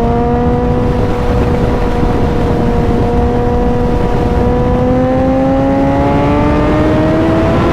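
Suzuki motorcycle engine running steadily at road speed, then rising in pitch as it accelerates over the last few seconds, over a steady low rumble.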